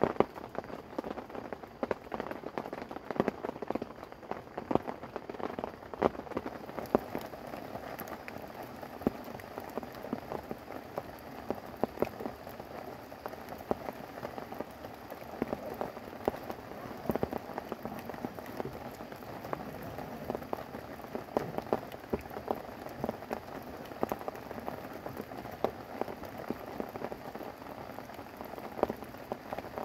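Steady rain falling on a tent: a dense run of separate drop hits on the fabric over an even hiss.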